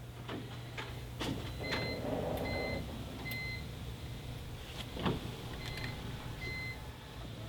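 Clicks and knocks of car-door and cabin handling, with a short high electronic beep repeated about every 0.8 s, three times and then twice more, over a steady low hum.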